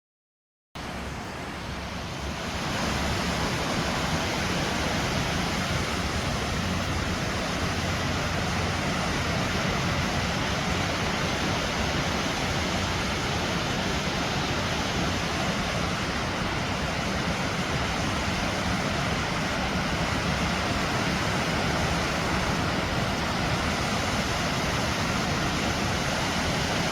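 Waterfall rushing: a steady, even wash of falling water that cuts in about a second in and grows a little louder a second or two later.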